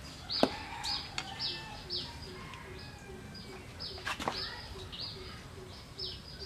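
A small bird repeats a short, high, falling chirp about twice a second, over a low note that repeats steadily underneath. A knife prying coconut meat from the shell makes sharp knocks and scrapes: the loudest about half a second in, another about a second in, and a cluster about four seconds in.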